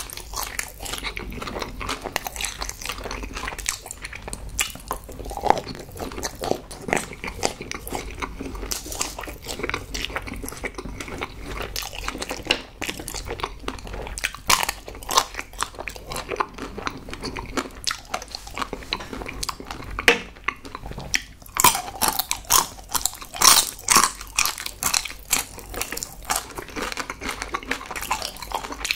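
Close-miked biting and chewing of chocolate-coated sweets with soft white fillings: thin chocolate shells crackling and soft centres being chewed, with wet mouth sounds. A run of louder, crunchier bites comes about three-quarters of the way through.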